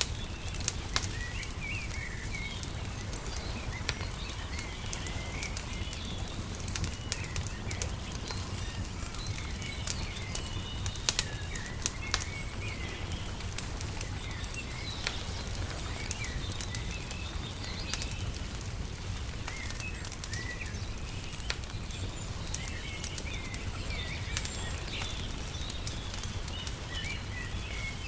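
Wood fire crackling, with frequent sharp pops, over a steady low rumble, while small birds chirp throughout.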